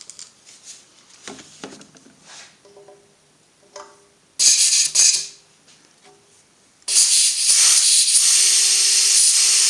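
Light handling clicks, then a short blast of compressed air from an air blow gun about halfway through, and from about two-thirds of the way a loud, steady hiss as the gun pressurises a steam press chamber for a leak test, with air escaping around the nozzle where it is held in the fitting.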